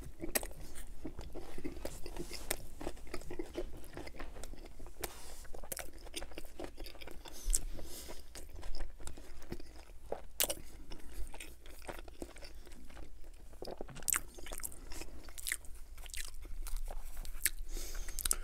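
A man biting into and chewing a grilled chicken wrap in naan bread with tomato, onion and tzatziki, close to the microphone: crunching and sharp mouth clicks throughout.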